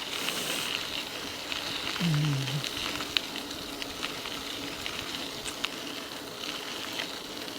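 Mountain bike tyres rolling steadily over a rough trail surface, a continuous crunchy hiss with small stones and grit clicking under the wheels. A brief low vocal sound comes from the rider about two seconds in.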